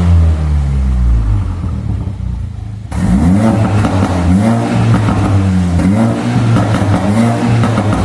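Mercedes-Benz A45's turbocharged four-cylinder engine revving through an MYS valved exhaust. The revs fall away over the first three seconds; then the note turns suddenly louder and brighter, with a run of quick throttle blips about one a second.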